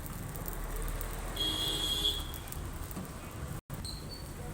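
Street traffic rumbling, with a brief, fairly quiet vehicle horn toot about a second and a half in.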